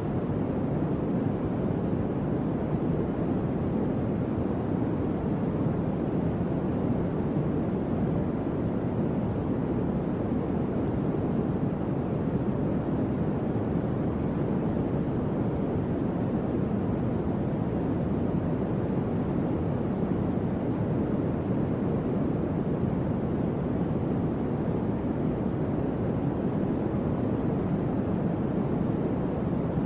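Electric fan running steadily, a constant low whooshing hum of moving air, with no change in speed.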